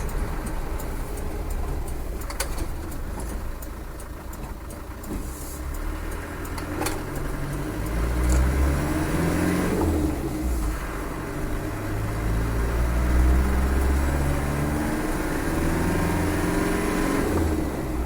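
Land Rover 300Tdi four-cylinder turbo-diesel engine on the road, quieter for the first few seconds, then pulling up through the gears with its note rising in steps from about eight seconds in, over a steady low road rumble.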